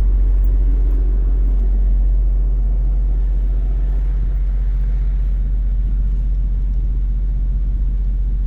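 Semi-truck's diesel engine idling steadily, a constant low rumble heard from inside the cab.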